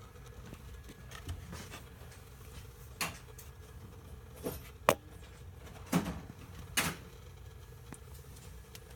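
About six scattered knocks and clicks of things being handled, the sharpest a little before the middle, over a faint steady hum.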